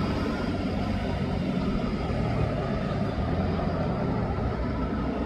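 A steady low rumbling noise, even throughout, with no distinct events.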